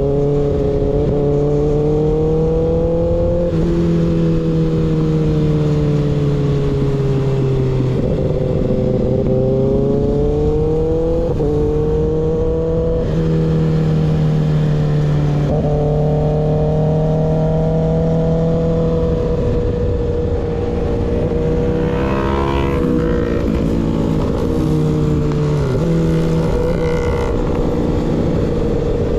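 Kawasaki ZX6R inline-four running through an unbaffled M4 GP19 slip-on exhaust while riding, its pitch rising and falling with sudden steps several times as gears change.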